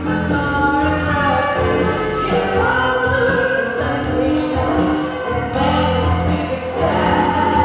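Live stage music: a group of voices singing together over an instrumental backing.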